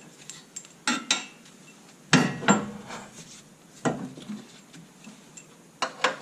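Metal tools and car parts clinking and clanking, about seven separate knocks with short ringing, the loudest a little after two seconds in.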